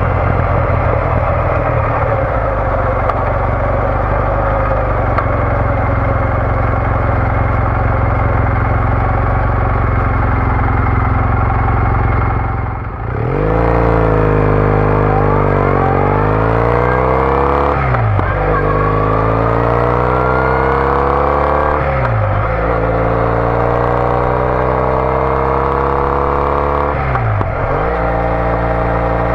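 Triumph Bonneville T214 parallel-twin with a TOGA aftermarket exhaust, heard from the rider's seat. It runs at a steady cruise, then about halfway through the throttle is briefly closed. The bike then accelerates hard up through the gears, its note rising and dropping at each of three upshifts.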